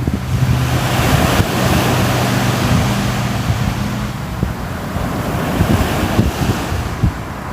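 Sea waves surging and washing on the shore, a swell building about a second in and easing off after about four seconds, with a low steady hum beneath it at first.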